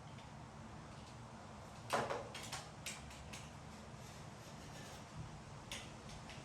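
A sharp knock, then a quick run of lighter clicks and taps, and one more click near the end, over a low steady hum: small hard-object handling noises.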